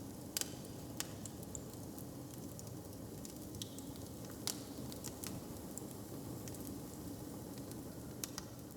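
Fire crackling: a steady low rumble with scattered sharp pops, the strongest about half a second and four and a half seconds in.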